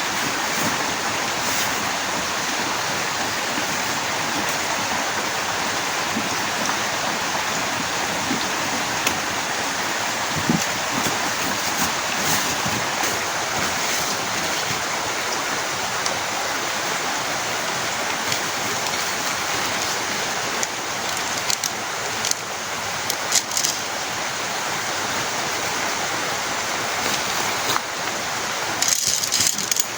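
Heavy rain falling steadily, a dense even hiss, with scattered sharper taps that come more often in the last third.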